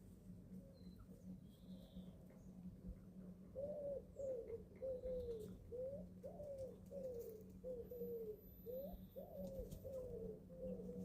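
Eleven-week-old chickens making a run of short, soft, rising-and-falling calls, about two to three a second, starting a few seconds in, over a steady low hum.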